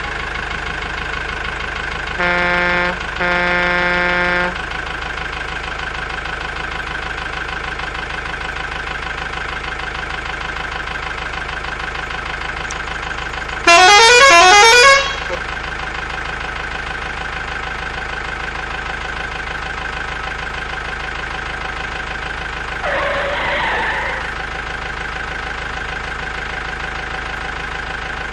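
Truck engine running steadily while its horn sounds: two short honks about two seconds in, then a louder, rising multi-tone horn call about halfway through, and a shorter, rougher blast further on.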